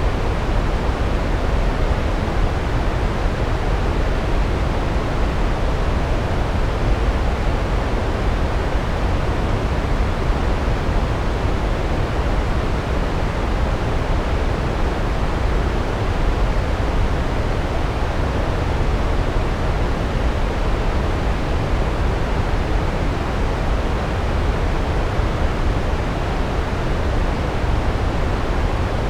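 Large waterfall: a steady, unbroken roar of falling water, heaviest in the low end.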